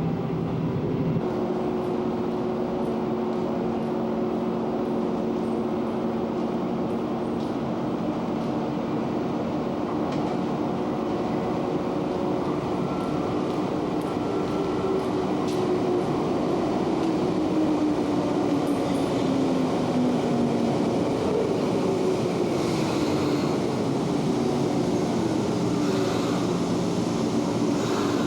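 Electric commuter train on the Keiyo Line running on the track: rumbling wheel noise with a steady motor hum, which falls in pitch about halfway through as the train slows.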